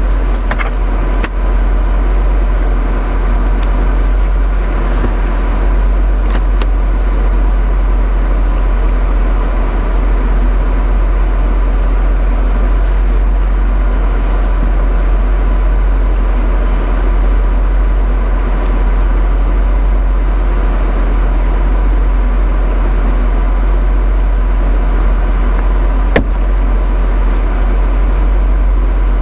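Dodge Charger engine idling steadily, heard from inside the cabin as a loud, even low rumble with a thin steady hum over it. A couple of light clicks come through, one about a second in and one near the end.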